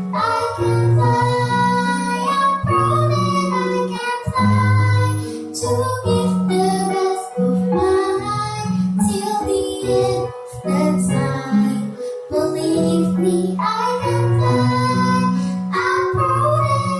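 A child singing a song with instrumental accompaniment, her voice carrying the melody over held bass notes that change about every second.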